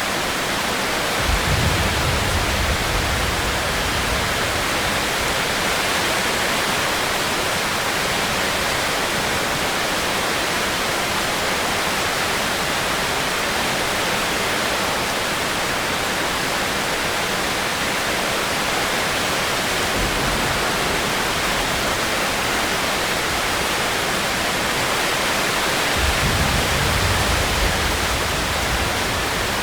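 Steady rain, an even hiss with no pauses, with brief low rumbles about a second in and twice more near the end.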